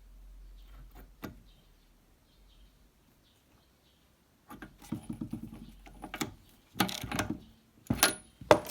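Spark-plug tester firing a plug in its pressure chamber, set to 4.5 atmospheres: rapid trains of sharp ticking sparks in several bursts from about halfway on, after a single click about a second in.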